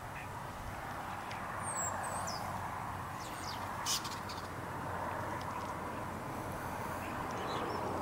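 Steady outdoor background hiss with a few short, high bird chirps about two seconds in, and a brief sharp sound around the middle.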